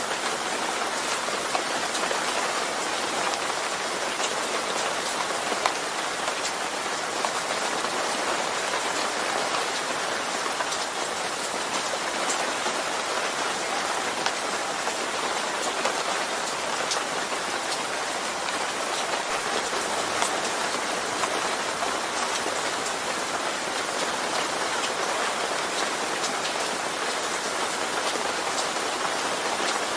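Steady rainfall, a dense even hiss of falling rain with scattered individual drop ticks.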